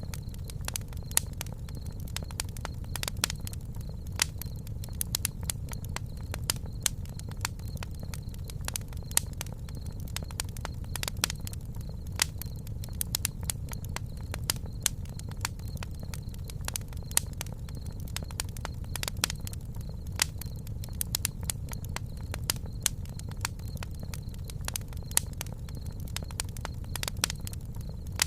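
Campfire crackling, with frequent irregular sharp pops over a steady low rumble of the burning fire.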